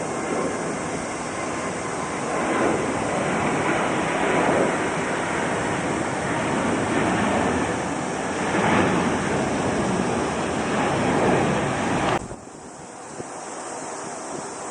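Jet airliner's engines at takeoff thrust: a loud, steady rushing noise with faint whining tones, swelling and easing, that stops abruptly about twelve seconds in.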